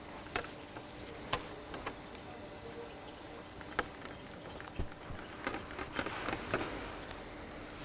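Scattered light clicks and taps over a faint steady hum.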